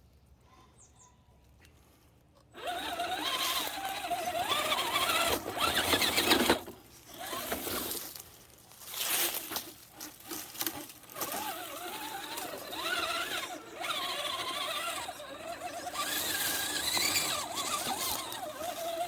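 An RC car's motor whining, its pitch rising and falling as the throttle varies. It starts about two and a half seconds in after near silence and comes and goes with short lulls.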